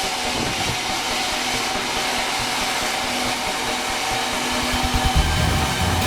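Sawmill saw running steadily through meranti timber, a continuous rushing machine noise with a faint steady whine. A deeper, pulsing low rumble joins about five seconds in.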